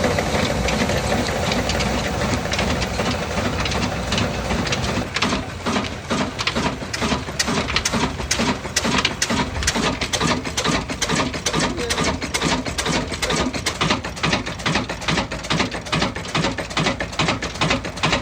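Ruston Hornsby diesel engine running just after a cold start. It is fairly even at first, then after about five seconds it settles into a steady, regular knocking beat of about three strokes a second.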